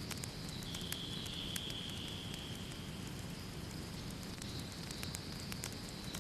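Wood fire in a fireplace crackling, with irregular sharp pops and snaps over a steady low rumble of the flames. A high hiss runs alongside, dropping slightly in pitch about a second in and rising again about halfway through.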